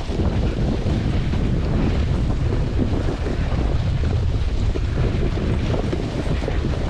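Steady wind rush and low rumble buffeting the microphone while riding a snowboard towed at speed over snow.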